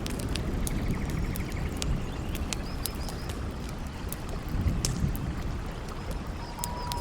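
Campfire crackling in scattered sharp pops over a steady low rush of river water and wind. A low rumble swells briefly about two-thirds of the way in.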